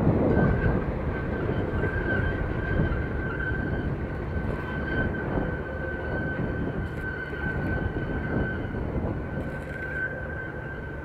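A freight train moving away, its rumble slowly fading, with a steady high-pitched ring from the train or rails running under it.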